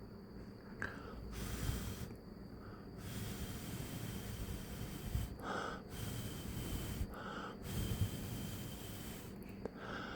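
Wind buffeting the microphone: an uneven, gusting rumble with noisy swells that come and go every second or two.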